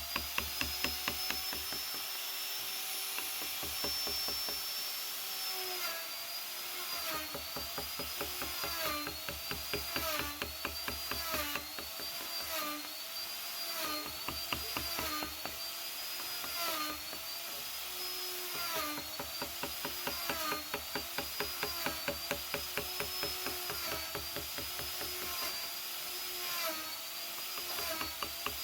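Small electric power carving tool cutting into wood: its motor whine sags in pitch and recovers again and again, about once a second, as the bit bites, over a fast rattle of ticks.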